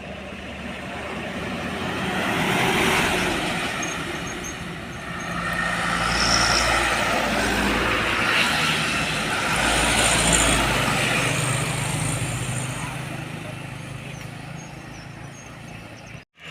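Heavy vehicles driving past on a road, engine and tyre noise rising and falling. One passes about three seconds in, then a louder, longer pass comes from about five to eleven seconds before fading away.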